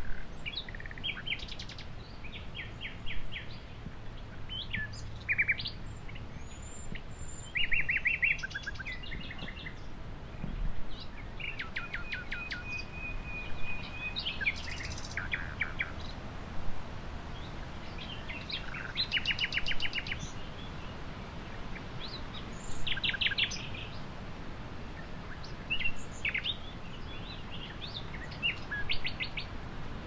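Birds singing: short, rapid trills and chirps every second or two, with one longer held note partway through, over steady background noise.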